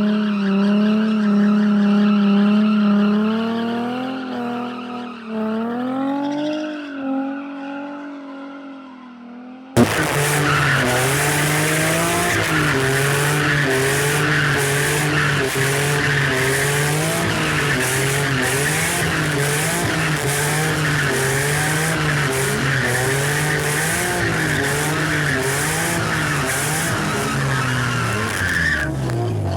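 A car drifting: its engine is held high in the revs, the pitch bobbing up and down with the throttle, over loud tyre squeal. About ten seconds in the sound cuts abruptly from a fading engine note to a louder stretch of the same engine and squealing tyres.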